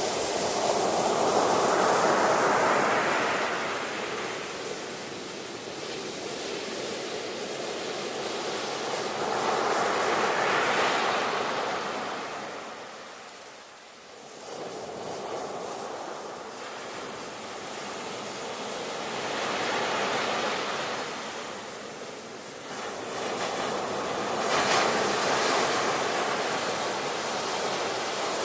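Ocean surf washing onto a shore, each wave surging up and falling away, four times, over a steady hiss of water.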